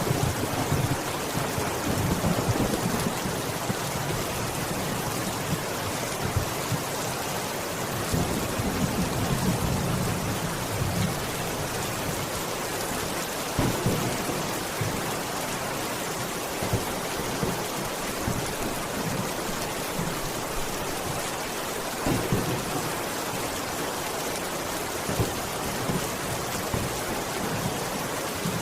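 Steady rain falling hard, with low rolling thunder rumbling through the first few seconds and again about a third of the way in, and scattered sharper drop hits.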